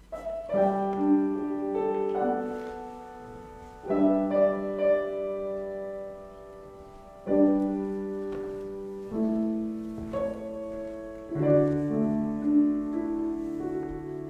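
Piano music at a slow pace, a new group of notes struck every two to four seconds and left to ring and fade.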